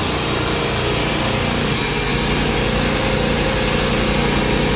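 Carpet-cleaning extraction machine with three vacuum motors running steadily: a continuous whine with a fast, regular low pulsing beneath it.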